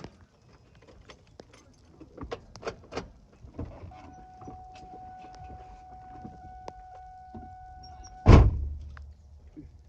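Scattered clicks and light rattles of handling, then a steady high electronic tone held for about four seconds, cut off by a loud single thump near the end.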